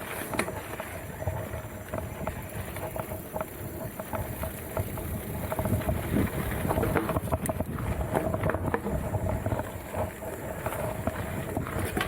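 Mountain bike rolling over a rough dirt trail: steady tyre and wind rumble on the microphone, with frequent clicks and rattles from the bike.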